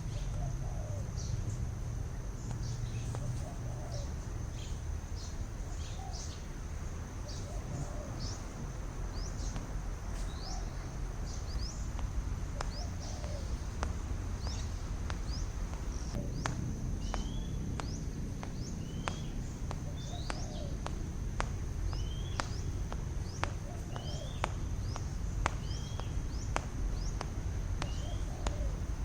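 Wild birds calling over a steady low rumble: many short, quick, falling high chirps, joined in the second half by short rising whistled notes repeating every second or so. A run of sharp clicks comes in the second half.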